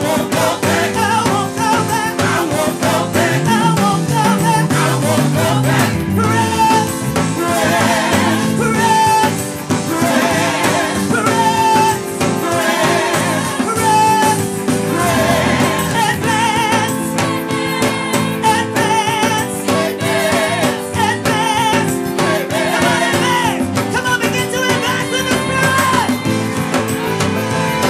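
Live gospel worship music: several voices singing over a band, with a bass line stepping down a scale about four seconds in.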